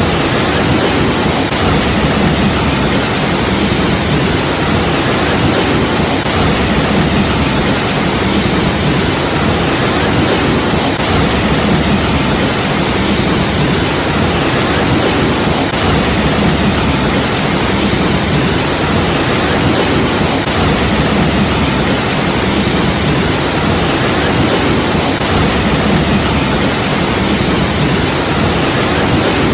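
Waterfall, water pouring and splashing in a loud, steady rush.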